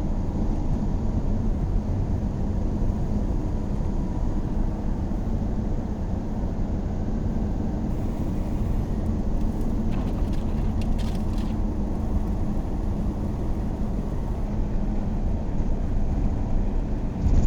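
A vehicle running on the road, with a steady low engine and road rumble and a faint hum. A few light clicks come about ten seconds in.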